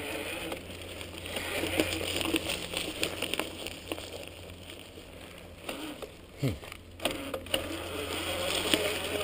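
Electric mountain bike riding a dirt trail: tyres crunching over the ground with scattered small clicks and rattles over a steady low hum.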